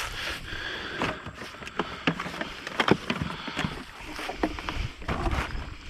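Irregular knocks, clatter and rustling of scrap items being handled and lifted, over a steady low rumble.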